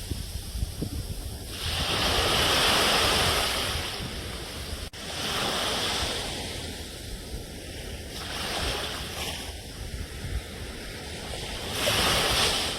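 Ocean surf: waves washing in and drawing back, swelling about two seconds in, again around six and eight and a half seconds, and near the end, over a steady low rumble. A very brief dropout about five seconds in.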